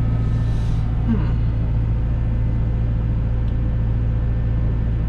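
Cat 313 excavator's diesel engine running steadily, heard from inside the cab, with a brief hiss in the first second.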